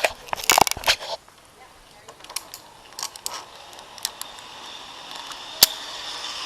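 Sharp metallic clicks and clanks, a quick cluster in the first second and then single clicks, typical of harness carabiners and clips handled on a steel safety cable. A steady hiss builds over the last couple of seconds.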